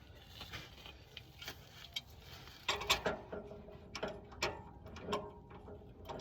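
Irregular metallic clicks and clinks of a wrench turning a 1970 VW Beetle engine over by hand, bringing cylinder 2's valves to closed for a valve-lash check; the clicks grow busier, with short ringing tones, from about halfway in.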